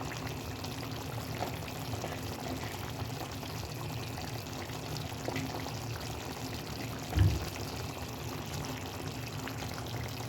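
Chicken tagine sauce simmering in the pot, a steady bubbling. There is one short knock about seven seconds in.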